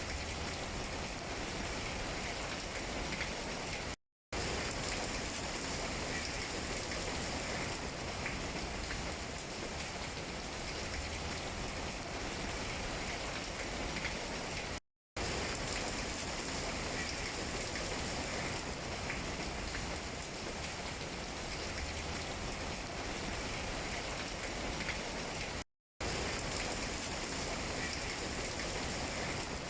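Steady rain falling on tree leaves, an even hiss with scattered drops tapping. The sound cuts out to silence for a split second three times, about every eleven seconds.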